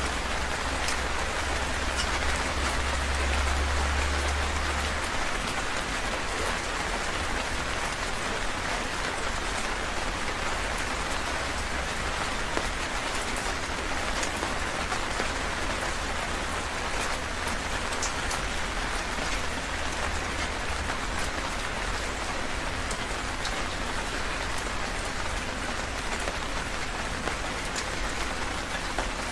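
Heavy rain falling steadily: a dense, even hiss with scattered sharper drop hits. A deep low rumble underneath is strongest for the first five seconds or so, then eases.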